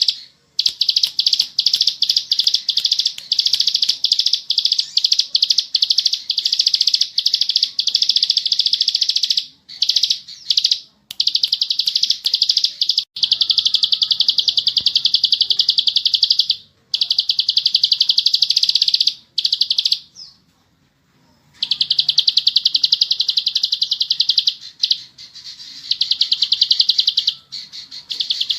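Ciblek sawah, a small prinia, singing its rapid, buzzing 'ngebren' trill in long unbroken runs of several seconds, with a few short pauses and one longer pause about two-thirds of the way through.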